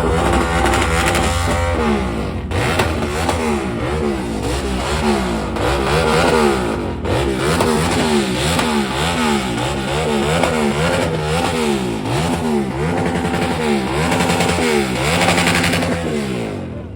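A truck engine revved over and over, its pitch rising and falling about once a second, before fading out near the end.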